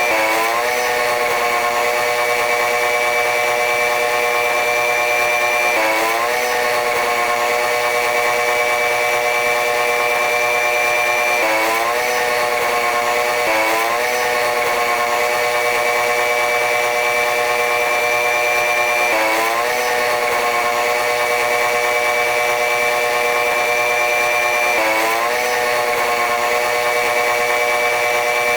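Train running noise: a steady mechanical drone with a high whine. All the pitches dip briefly and climb back about every six seconds, five times.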